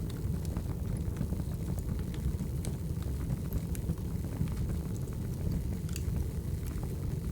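Firewood fire burning: a steady low rush with scattered sharp crackles and pops.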